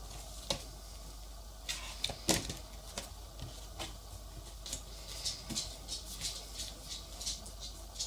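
Coloured pencil sketching on sketchbook paper: short scratchy strokes, a few separate ones at first, then several a second, over a steady low electrical hum.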